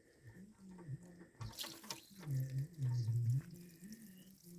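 Water trickling and gurgling from a snowcat engine that has water in its oil, faint and uneven, louder in two short spells past the middle.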